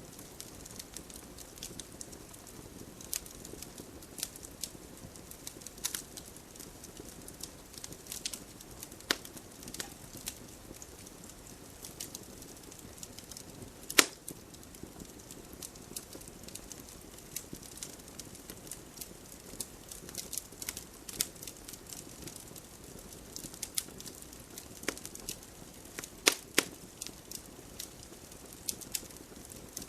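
Fire in a fireplace crackling: irregular sharp pops and snaps over a steady soft hiss of flame. One loud pop comes about halfway through, and a few louder snaps come near the end.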